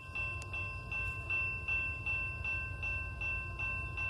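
Distant CSX freight train approaching, a low steady rumble. Over it runs a thin high ringing tone that pulses about two and a half times a second.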